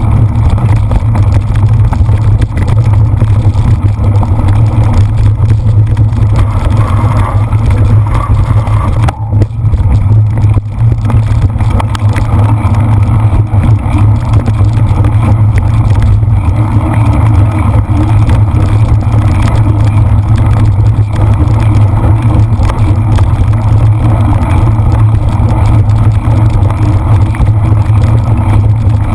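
Loud, steady low rumble of wind and riding noise on the camera of a cyclist racing a cyclocross course.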